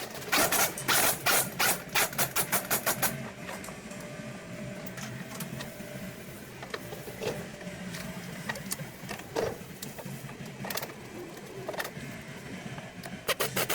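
Tool work on metal: a fast run of sharp metallic knocks, about four a second for the first three seconds, then a steady low hum with a few scattered knocks and a short burst near the end.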